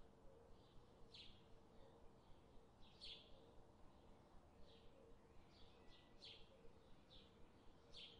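Faint bird chirps, short high calls repeating about once a second, over a low steady hum.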